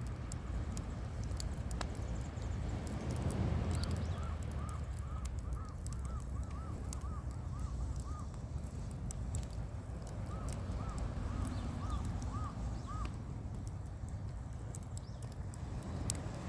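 A bird calling two quick runs of short, even notes, about three a second, starting about four and about ten seconds in. Under it are a steady low rumble and scattered sharp clicks.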